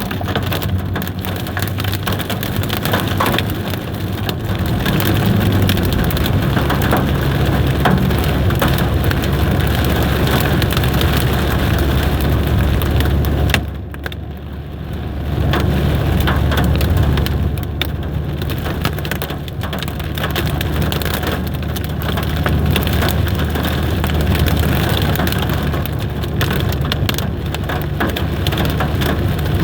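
Hail drumming on a car body and windows, a dense clatter of sharp hits, over the low hum of the car's engine running. The hits ease briefly about halfway through, then pick up again.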